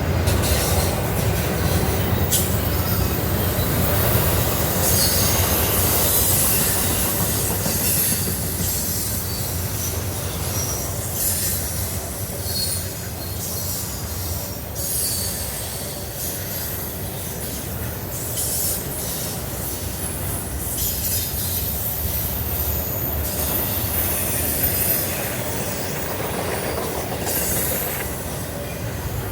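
Norfolk Southern intermodal freight train rolling past at speed: a continuous rumble of steel wheels on rail, with intermittent high-pitched wheel squeal and screech coming and going.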